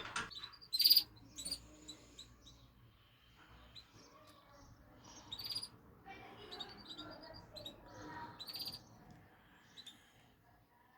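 Birds chirping and calling in short high notes, with louder bursts about a second in, around the middle and near the end, and softer lower calls between.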